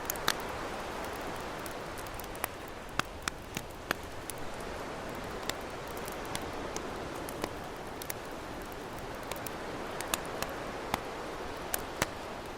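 Campfire crackling, with sharp pops at irregular intervals, over a steady wash of ocean waves.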